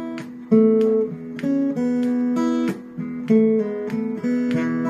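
Acoustic guitar playing an instrumental passage between sung lines, chords struck in a steady rhythm and left to ring.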